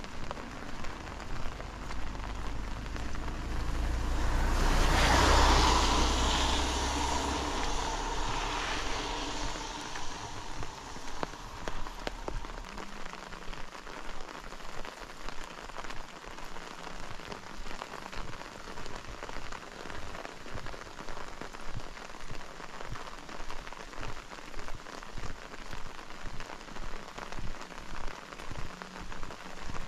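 Steady rain with a vehicle passing on the wet road, swelling to its loudest about five seconds in and fading out by about twelve seconds. Under the rain are regular walking footsteps, about two a second.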